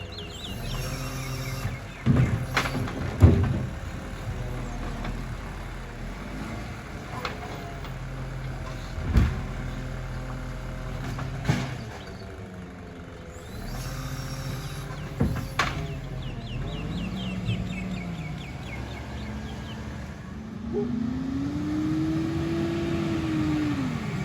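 Iveco Stralis garbage truck's engine running, with a handful of sharp knocks and bangs spread through it. Near the end the engine note rises and then falls again.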